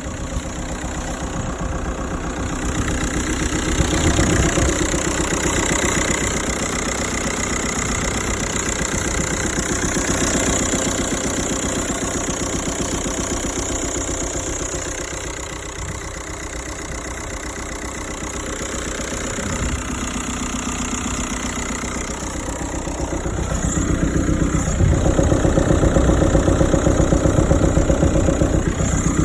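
Seat Alhambra engine running with the strange knocking noise that is the subject of the owner's complaint. It gets louder from about 23 seconds in and stays louder.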